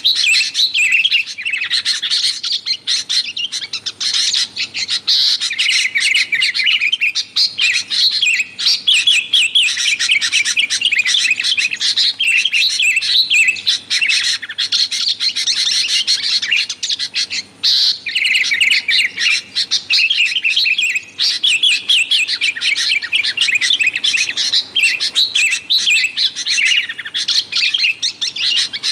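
Sooty-headed bulbuls chattering in a fast, unbroken stream of bright chirps and short whistled phrases, with only brief pauses.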